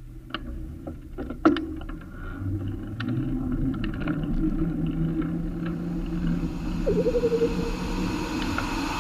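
Road traffic with a motor vehicle running, rising in loudness, and scattered sharp clicks and knocks in the first couple of seconds.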